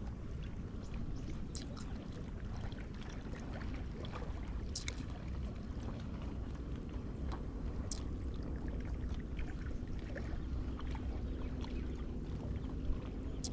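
Steady low rumble of outdoor wind and water noise, with scattered small clicks and ticks throughout.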